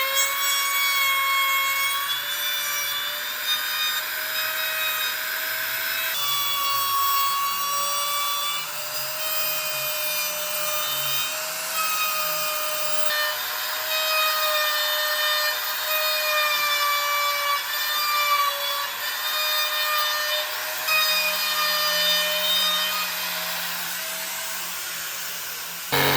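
Electric power tool running steadily against wood, a continuous whine whose pitch wavers and dips slightly as it bites in, over a hiss of abrasion.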